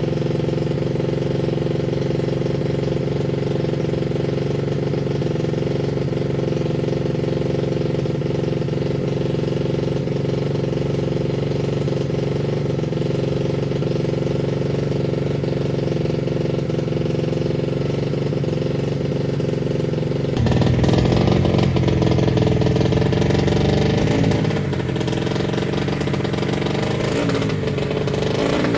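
Motocross bike engine running at a steady idle. About twenty seconds in, the sound turns suddenly louder and its pitch wavers up and down, like the engine being revved.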